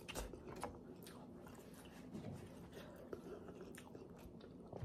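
Faint close-up chewing of a mouthful of instant ramen noodles, soft wet mouth clicks, a few more of them in the first second.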